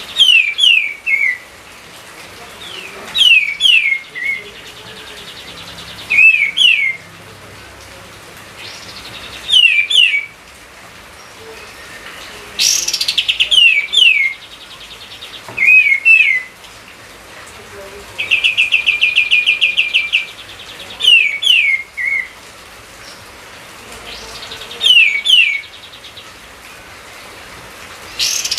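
A songbird singing in short, repeated phrases about every three seconds, each two or three quick, falling whistled notes. Twice the bird gives a rapid, rattling trill instead, the longer one just past the middle. A steady faint hiss lies underneath.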